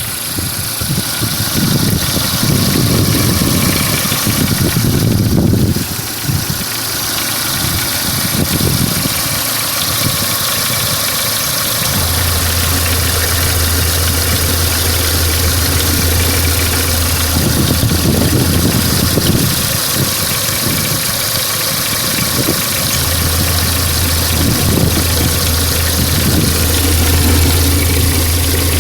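Renault Mégane II 1.6 petrol engine idling with a knock, which the owner puts down to the exhaust camshaft phaser ("успокоитель"). A steady low hum comes in partway through, drops out briefly and returns.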